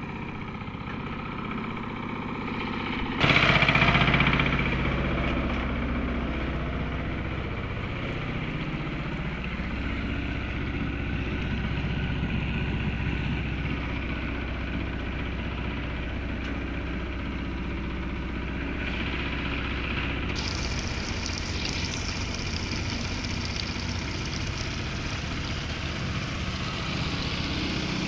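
Truck engine running steadily, with a sudden louder surge about three seconds in that eases off over the next few seconds.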